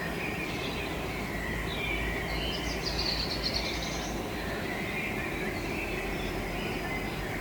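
Birds chirping over a steady outdoor background hiss and low rumble, with a quick, higher trill about three seconds in.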